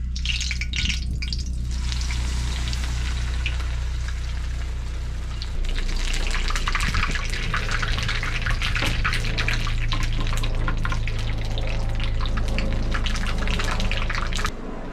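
Crumbed chicken shallow-frying in hot oil in a pan, a dense sizzle and crackle that gets louder about halfway through and drops off just before the end, over a steady low hum.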